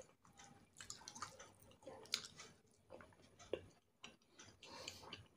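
Faint chewing and wet mouth noises of a person eating rice by hand, with a few scattered sharp clicks.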